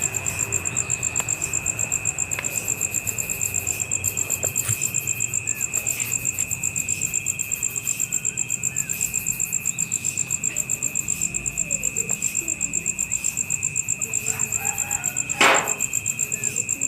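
Insects, cricket-like, chirping in a steady, fast, even pulse, with a sharp click about three-quarters of the way through.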